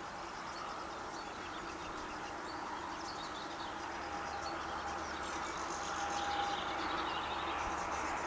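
Small birds chirping over a steady distant mechanical hum that slowly grows louder.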